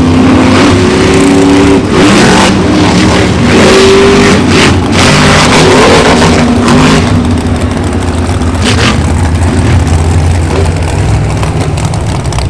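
Vehicle engine revving up and down, very loud and close. It settles into a steadier low drone in the second half.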